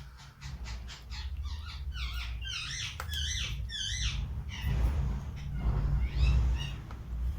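Birds chirping in quick runs of short, sweeping calls, busiest a couple of seconds in and again near the end, over a low rumble.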